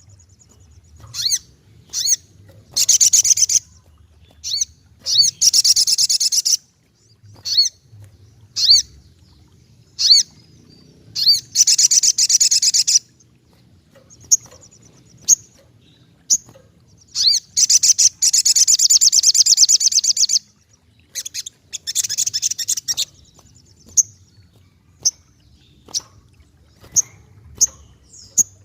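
Brown-throated sunbird (sogokontong) singing in full voice: repeated high, rapid trills, each lasting about one to two seconds, broken up by short, sharp chirps.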